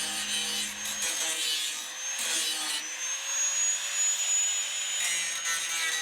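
An electric power tool running with a steady high whine over a harsh rasping noise, like a tool working metal. Low background music underneath cuts out about a second in.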